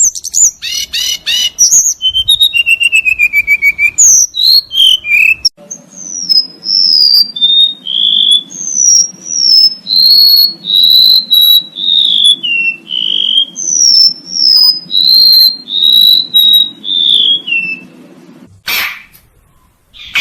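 Recorded songbird song: about five seconds of rapid, varied trills and chirps, then a long series of clear whistled notes, each sliding downward, repeated a little under twice a second until shortly before the end. Two short noise bursts follow near the end.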